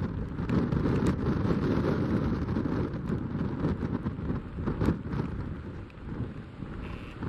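Strong, gusty wind buffeting the microphone: a rushing low rumble that swells and drops from gust to gust.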